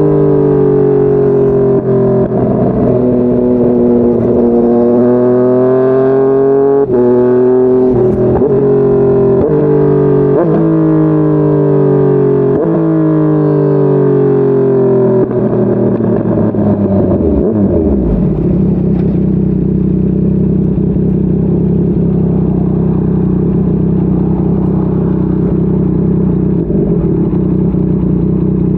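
Yamaha MT-09's three-cylinder engine pulling hard through the gears, its pitch climbing and snapping down at each quick upshift, then falling away as the bike slows and settling to a steady idle for about ten seconds. Near the end the revs rise again as it pulls off.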